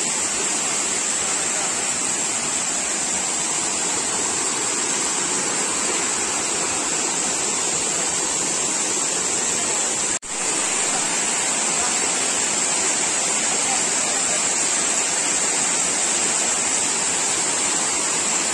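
Waterfall rushing steadily, an even loud wash of falling water with a strong high hiss in it. The sound cuts out for a split second about ten seconds in, then carries on as before.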